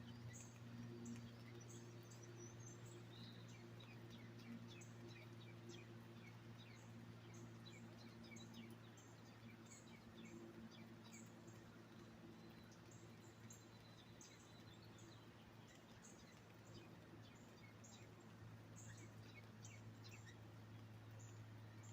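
Faint, scattered chirping of small birds, many short high notes, over a steady low hum.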